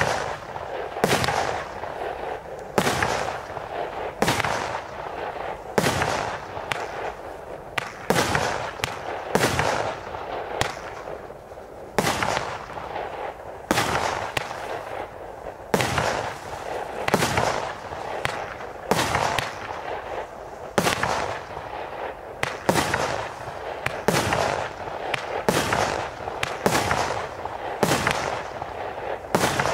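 Zeus Fireworks Spitting Cobra 24-shot barrage cake firing shot after shot, about one a second, sometimes two close together. Each shot is a sharp bang followed by a spray of crackling from the scattered sparking stars.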